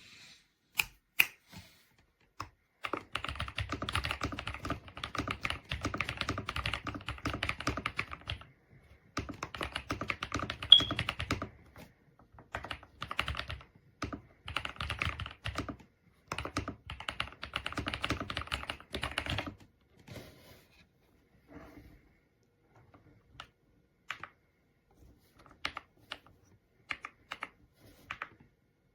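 Kisnt 85-key gasket-mounted mechanical keyboard with linear switches being typed on: fast, dense runs of key clacks broken by short pauses, giving way to slower, scattered single key presses for the last several seconds.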